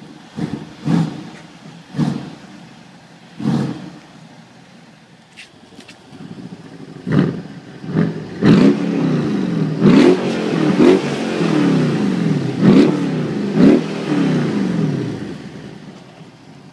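2012 Mercedes-Benz CLS 63 AMG's twin-turbo V8 being revved while standing: a few sharp throttle blips in the first few seconds, then from about seven seconds in a run of quick repeated revs, each rising and falling. It settles back toward idle near the end.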